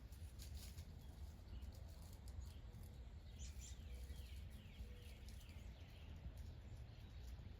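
Faint outdoor ambience: a steady low rumble with distant birds chirping, including a quick run of down-slurred notes about three and a half seconds in.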